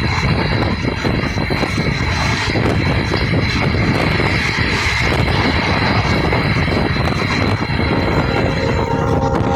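Express passenger train running at speed, heard from on board: a loud, steady rumble of wheels on the rails with a thin high whine over it. Near the end the whine stops and a few steady mid-pitched tones come in.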